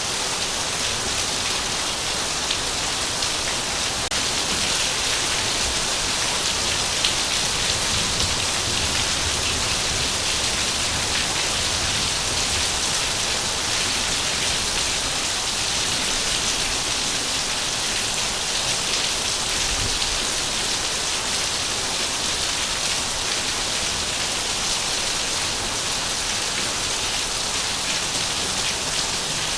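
Heavy rain falling steadily, a dense continuous hiss of drops on surfaces with no let-up.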